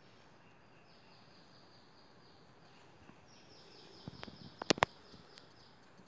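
A bird calling in two rapid runs of short, high, downward-sliding notes over a faint steady background. A few sharp clicks, the loudest sounds, come about four and a half seconds in.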